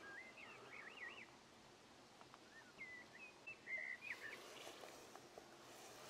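Faint bird song: short whistled phrases sweeping up and down, in two bouts. A few soft knocks and rustles come near the end as a wooden beehive is shifted on its concrete blocks.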